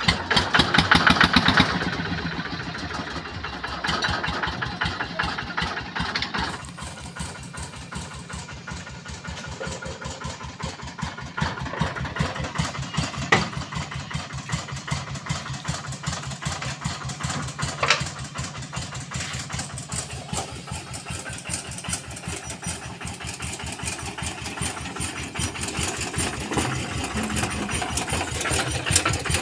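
Engine of a Quick QH-11 combine harvester running steadily with a rapid, even pulse, with extra mechanical clatter over it for the first six seconds or so. Two short sharp clicks come in the middle.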